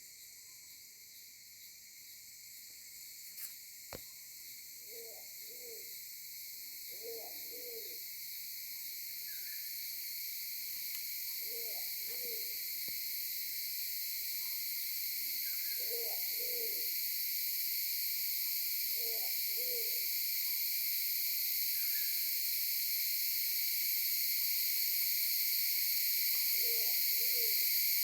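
A bird's low, two-note hooting calls, repeated about six times at irregular intervals of a few seconds. A steady high-pitched insect chorus underneath slowly grows louder.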